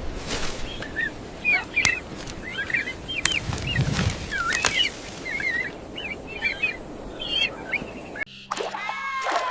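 Birds chirping and twittering, many short quick calls over a steady rushing background noise. About eight seconds in the background cuts off and a few longer pitched calls that slide in pitch follow.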